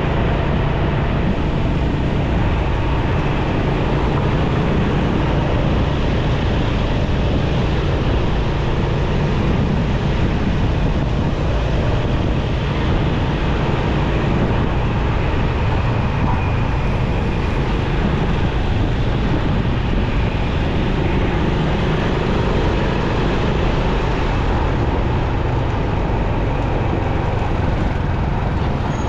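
Motorcycle riding through busy city traffic: its engine, road noise and surrounding vehicles blend into a loud, steady noise without distinct events.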